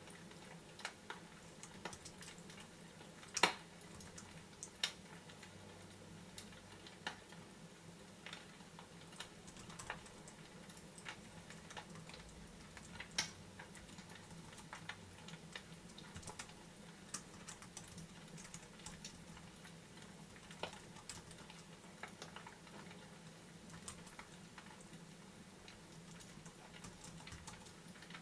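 Fireplace crackling: faint, irregular pops and clicks over a steady low hum, with one sharper pop about three and a half seconds in.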